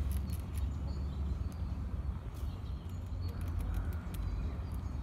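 Small birds chirping sporadically over a steady low rumble.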